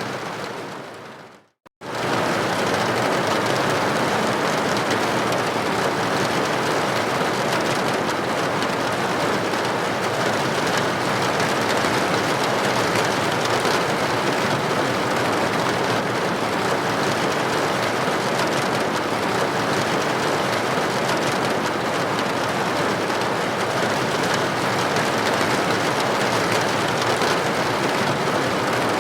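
Steady rain against a building window, an even hiss of droplets. It briefly fades out to silence about a second and a half in, then cuts back in at full level.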